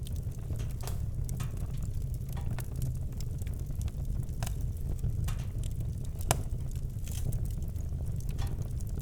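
Campfire crackling with irregular sharp pops over a steady low rumble; one louder pop about six seconds in.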